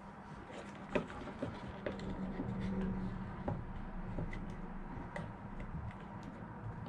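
Scattered light clicks and taps of small RC-car parts being handled as a steering servo is fitted into the chassis, over a faint steady low hum.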